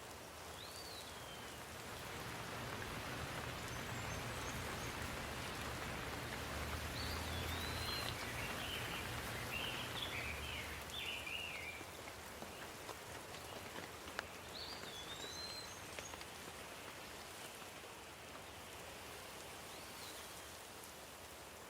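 Steady rain falling, swelling louder for several seconds in the first half with a low rumble beneath it, while a bird gives short chirps and a brief warbling run now and then over the rain.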